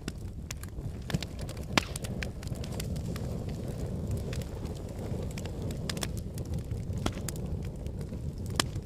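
Wood fire burning in a fireplace: a steady low rumble of flame with irregular crackles and pops of the logs, a few sharper pops standing out.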